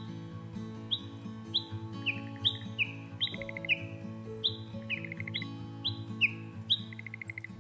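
Recorded wildlife calls over soft background music with sustained low notes: short falling chirps come about twice a second, with a few quick rattling trills between them.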